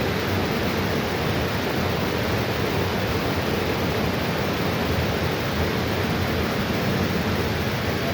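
A river rushing steadily, an even roar of flowing water.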